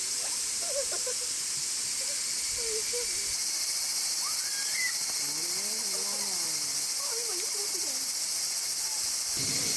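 Steady high-pitched drone of summer insects, with faint distant voices underneath.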